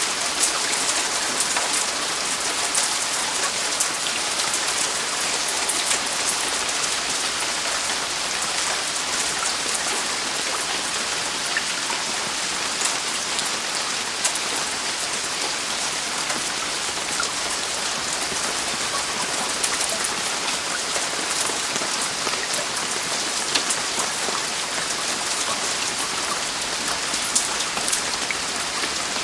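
Heavy rain falling steadily on a roof: a dense, even hiss of rain with many individual drops ticking sharply on top.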